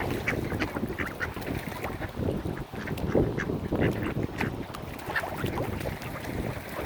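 Mallard ducks quacking, many short calls in quick succession over a steady low rumble.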